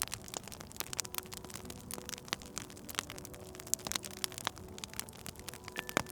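Wood fire crackling with many irregular sharp pops, over soft background music of sustained low notes.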